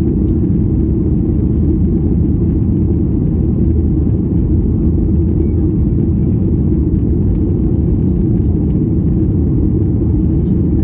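Steady low rumble inside the cabin of a Boeing 737-800, from its CFM56 jet engines and the airflow around the fuselage.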